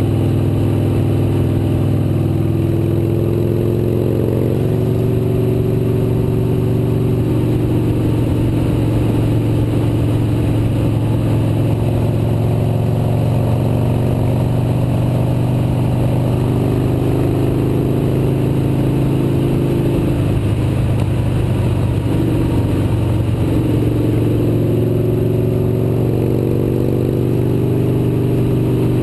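Motorcycle engine running steadily during a ride, its pitch rising and falling gently as the speed changes, over a constant rush of wind and road noise.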